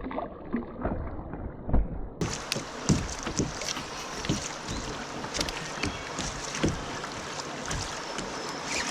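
Kayak out on a river: water noise and wind on the microphone, with scattered light knocks and splashes against the hull. About two seconds in the sound turns abruptly brighter and hissier.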